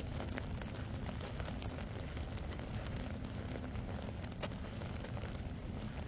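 Steady rain falling, with many small drop ticks scattered through it and one sharper tick about four and a half seconds in.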